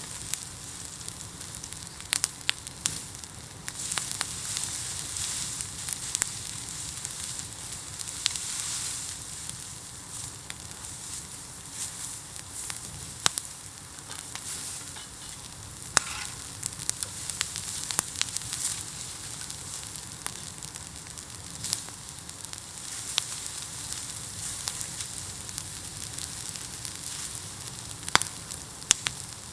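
Bamboo burning in a heaped bonfire: a steady hiss with scattered sharp crackles and pops.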